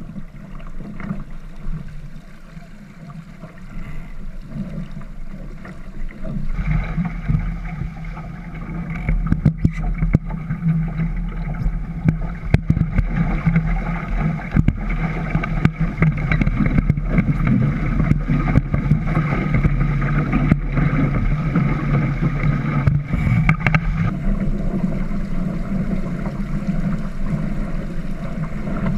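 Sound on board a small sailboat under way, with wind buffeting the microphone. It swells for a stretch with irregular knocks, then settles back near the end.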